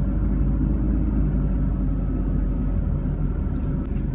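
Steady low rumble of a car's engine and road noise inside the cabin while driving slowly.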